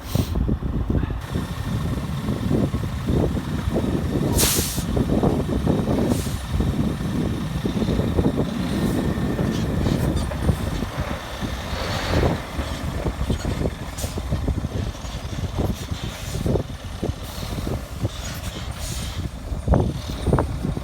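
Scania tractor unit's diesel engine running with a heavy, uneven low rumble, with a short sharp hiss of air about four and a half seconds in and a softer hiss near the middle.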